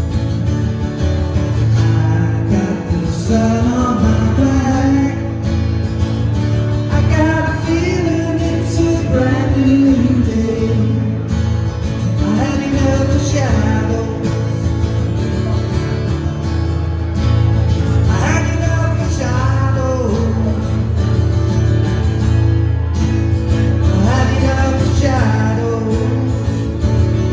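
Live band music with acoustic guitar over a strong, steady low end, and a lead melody line that bends in pitch above it.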